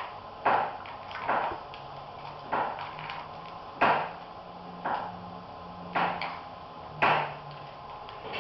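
A series of sharp taps or knocks, roughly one a second, each dying away quickly, over a faint steady hum.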